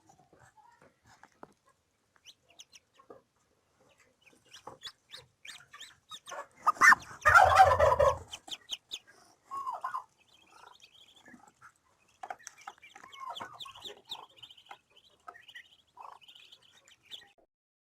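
Farmyard poultry clucking and calling in short, scattered bursts, with one loud noisy rush about seven seconds in.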